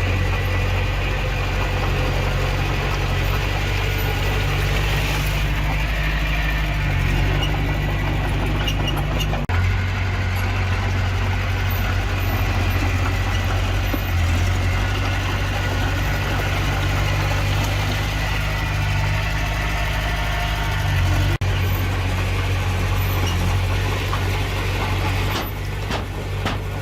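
Heavy diesel engine of earthmoving machinery running steadily, with its low engine note briefly broken twice.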